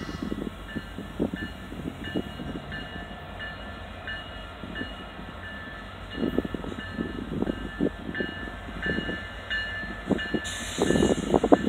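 Union Pacific diesel locomotives hauling a grain train, approaching with a steady low rumble. A faint high ringing repeats at a steady pace, and irregular low buffeting thumps grow stronger near the end.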